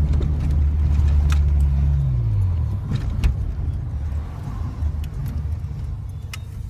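Manual car's engine running steadily, then falling in pitch about two seconds in as the revs drop, leaving an uneven low rumble. A few sharp clicks and knocks are heard over it.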